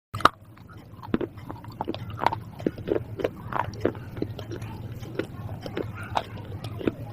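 Crunchy food being bitten and chewed close to the microphone: a run of irregular crackling crunches over a steady low hum.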